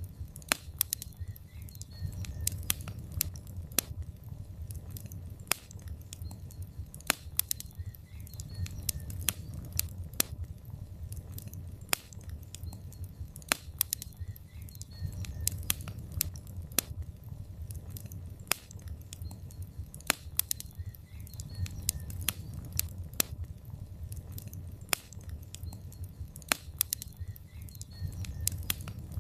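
Logs burning in a fireplace: irregular sharp crackles and pops from the wood over a low, steady rumble of the flames that swells and eases.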